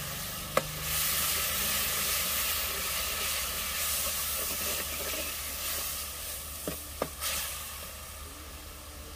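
An onion, garlic and tomato tadka sizzles in hot mustard oil in a steel kadhai as it is stirred with a metal ladle. The sizzle grows louder about a second in and eases off near the end, and the ladle knocks sharply against the pan once early and twice close together near the end.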